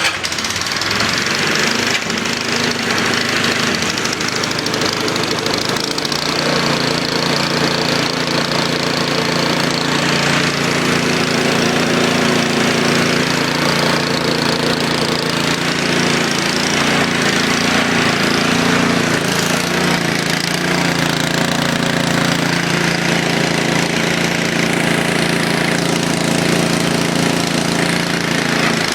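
Snowblower's small engine, rated at about 5 horsepower, running steadily just after a cold start on choke, having caught on the first pull. Its note changes about six seconds in.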